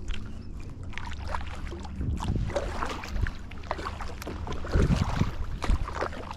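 Kayak paddling on the water: irregular paddle splashes and drips, with light knocks on the hull of a Tucktec folding kayak, over a low rumble of wind on the microphone.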